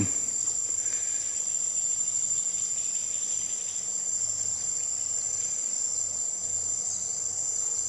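Steady, high-pitched insect chorus of crickets or cicadas, an unbroken shrill trill, with a faint hum of highway traffic beneath it.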